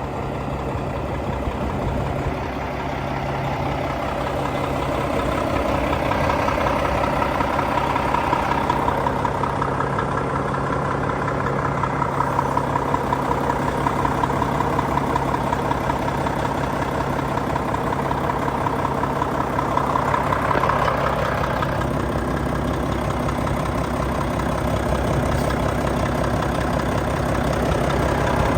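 Volvo FH 420 truck's 13-litre straight-six diesel idling steadily, its sound swelling and easing slightly over time.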